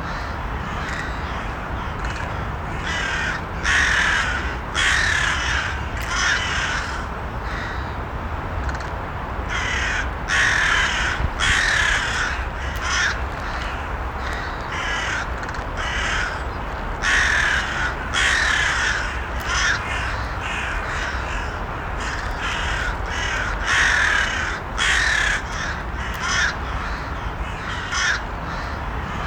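Crows cawing repeatedly, harsh calls coming in bouts of several caws every few seconds, over a steady low background noise.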